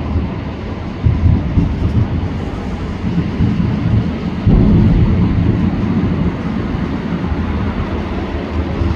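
Fireworks display: a dense run of overlapping booms that never lets up, with heavier bursts about a second in and again about halfway through.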